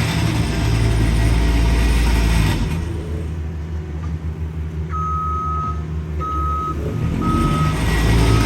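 Heavy diesel construction equipment running, with a back-up alarm starting about halfway through: three steady single-pitch beeps, about one a second, as a machine reverses.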